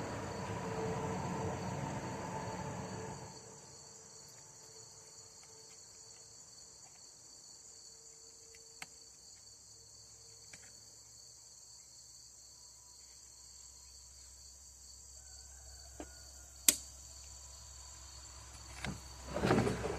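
Crickets chirring steadily, with a louder rushing noise that fades out about three seconds in. A few sharp clicks follow, the loudest about three-quarters of the way through, and a short cluster of knocks comes near the end.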